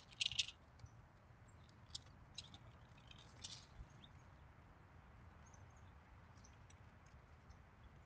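Faint, scattered short high chirps and ticks of small birds: a quick cluster at the start, a few more through the next few seconds, then thinning out.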